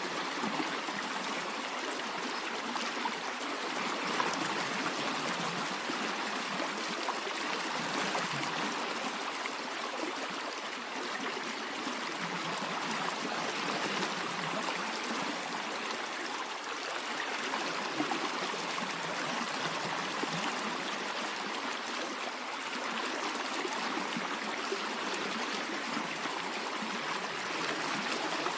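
A stream of running water flowing and trickling steadily, with no music or voices over it.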